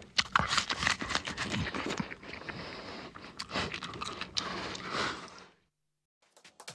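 A pigeon pecking: a quick, irregular run of taps and clicks that cuts off suddenly about five and a half seconds in.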